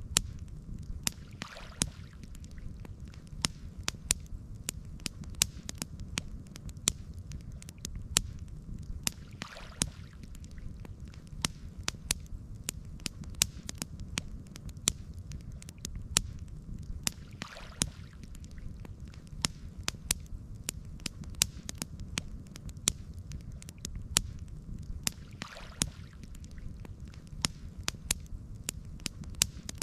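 Campfire crackling: frequent sharp pops and snaps of burning wood over a steady low rumble. A soft hiss swells up briefly about every eight seconds.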